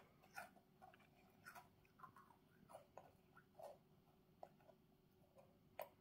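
Faint, irregular small crunches and clicks of a toddler chewing a chocolate chip cookie with her mouth closed, one sharper click near the end.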